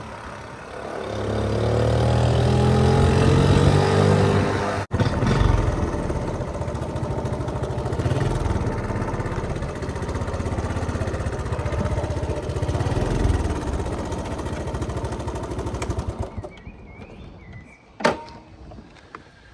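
Honda C70's small single-cylinder four-stroke engine pulling away and rising in pitch over the first few seconds, then running steadily under way. The sound dies down about three-quarters of the way through, and a single sharp click follows near the end.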